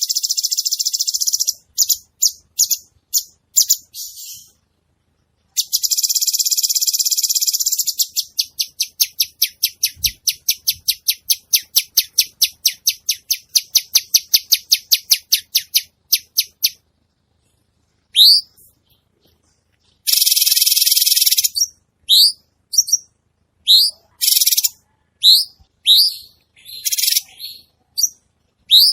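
Cucak cungkok songbird singing vigorously: rapid buzzy trills, a long run of fast ticking notes, then short sharp rising chirps between buzzy bursts.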